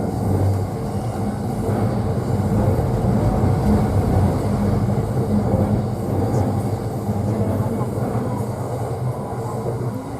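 JR East E531 series electric train running at speed, heard from inside the upper deck of a bilevel Green car: a steady rumble of wheels on rail with a low motor hum, easing slightly near the end.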